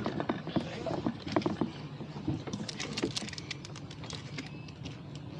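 Rowing: oars working in their oarlocks and splashing in choppy water, a quick run of sharp knocks and splashes that thins out after about three and a half seconds.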